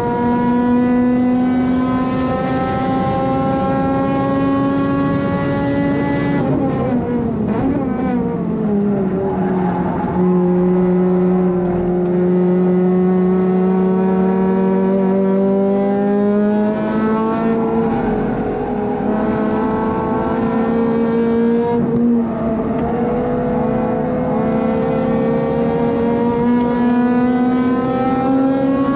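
Honda Civic FD2's four-cylinder engine heard from inside the car on track, running at high revs under load. The pitch climbs slowly, drops steeply for a few seconds about a third of the way in as the car brakes and shifts down, then rises again as it accelerates out.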